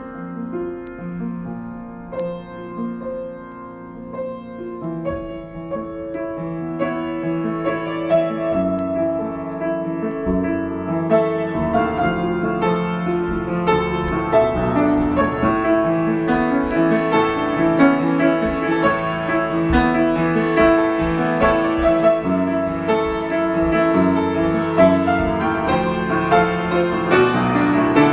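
Solo piano improvisation, quiet and sparse in the lower-middle register at first, then from about five seconds in growing gradually fuller and louder with denser chords and higher notes.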